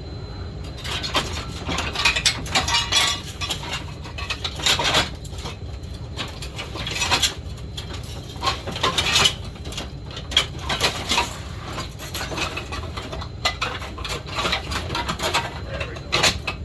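Metal parts clattering and clinking irregularly as someone rummages through a pile of loose chainsaw parts, over a steady low hum.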